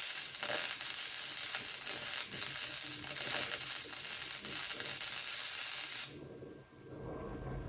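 Wire-feed welding gun laying a continuous bead on steel, a steady crackling sizzle of the arc that cuts off about six seconds in.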